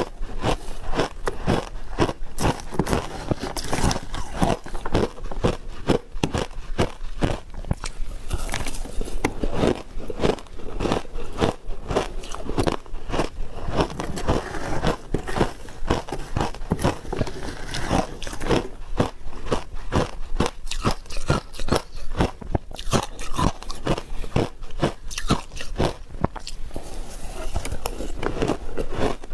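Ice being bitten and chewed close to the microphone: a continuous run of rapid, sharp crunches and cracks.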